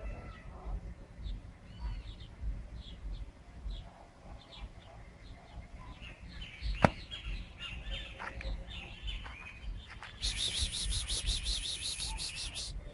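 Outdoor birdsong: many small birds chirping and whistling, with one sharp click about seven seconds in. From about ten seconds a rapid pulsing high buzz, like an insect, runs for a couple of seconds.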